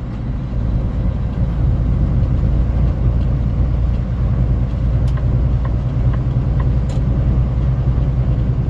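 Semi-truck's diesel engine and road noise heard inside the cab while driving: a steady low rumble, with a couple of light clicks about five and seven seconds in.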